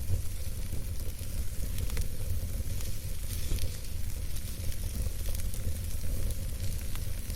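Wood campfire burning: a steady hiss with scattered soft crackles over a low rumble.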